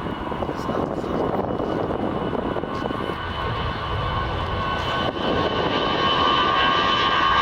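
Fixed-wing airliner's engines running, a rumble with steady high whining tones above it, growing louder toward the end.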